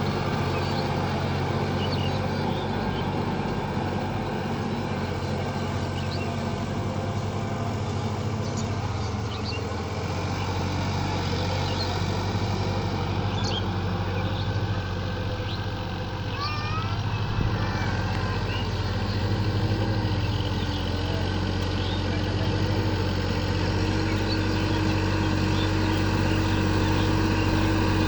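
Sonalika tractor's diesel engine running steadily, with a shift in its low hum about ten seconds in.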